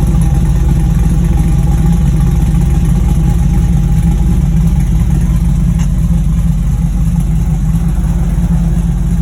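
Chevrolet Silverado pickup's V8 engine idling steadily with a fast, even pulsing and a low rumble.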